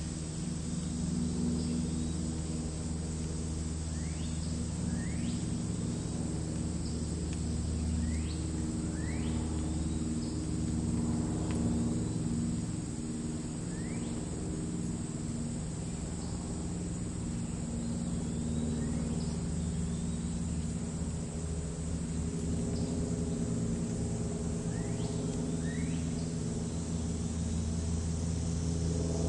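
Meadow ambience: a steady high insect trill of crickets in the grass, with short rising bird calls every second or two, over a louder low, steady rumble like distant engine traffic.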